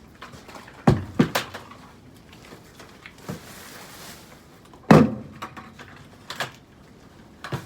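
A series of knocks and bangs: three close together about a second in, a single louder bang about five seconds in, and lighter knocks after that.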